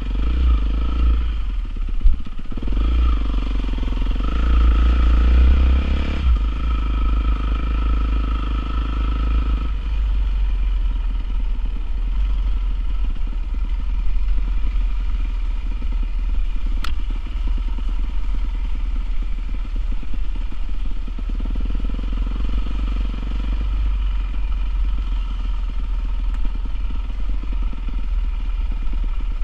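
Honda CRF450R single-cylinder four-stroke motocross bike engine running, busier and louder in the first ten seconds, then settling to a steadier note, with a strong low rumble underneath. A single sharp click about seventeen seconds in.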